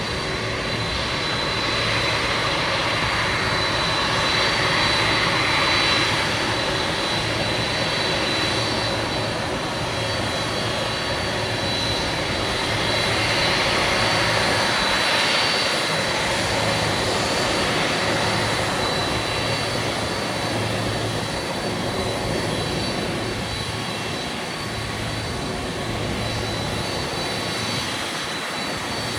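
Jet airliner's turbofan engines running steadily, a broad rush with a thin high whine over it, swelling a little in loudness twice.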